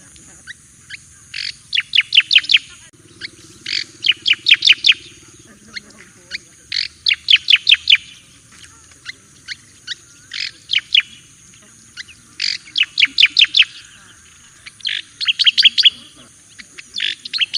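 Striated grassbird (cica koreng jawa) singing: repeated bursts of rapid, sharp high notes, each burst about a second long, coming every two or three seconds.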